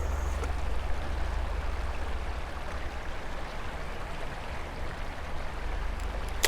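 Creek water flowing steadily, an even rushing hiss with a constant low rumble underneath.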